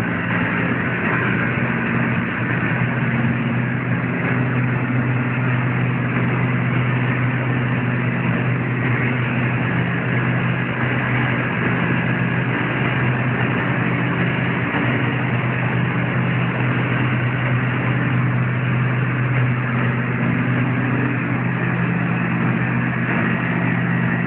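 Packaged air-conditioning unit running: a steady low mechanical hum with the rush of fan airflow, unchanging throughout.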